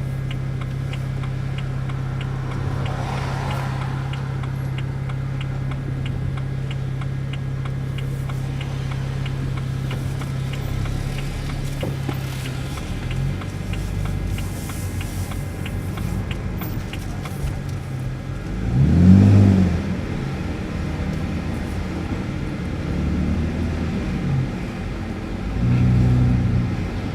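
BMW 328i E90 inline-six with a muffler delete, heard from inside the car. It holds a steady drone for the first part, with a turn signal ticking about one and a half times a second. It then revs up and down briefly twice, the louder rev about two-thirds of the way through and another near the end.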